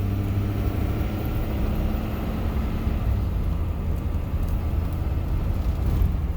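A diesel box truck driving, heard inside the cab: a steady low rumble of engine and road noise.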